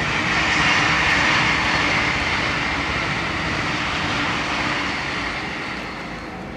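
E657-series electric express train passing at speed: a steady rush of running noise that swells over the first second, holds, then fades away over the last couple of seconds.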